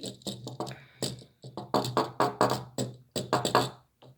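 A child's voice making wordless mouth sounds in a quick, choppy run, stopping shortly before the end.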